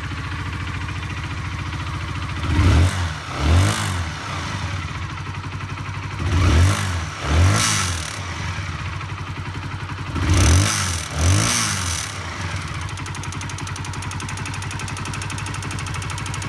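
Honda CBR single-cylinder motorcycle engine idling with a rattling noise, blipped up and back down in three pairs of short revs. The rattle comes from a fractured gudgeon pin, the fault the garage found after stripping the engine.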